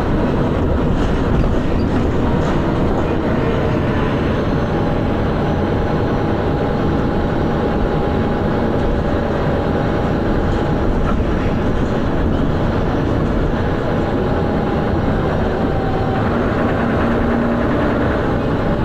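Dennis Arrow double-decker bus running steadily, its engine thrashing with rumble and rattle; the bus has a loud knocking noise, a sign of a mechanical fault.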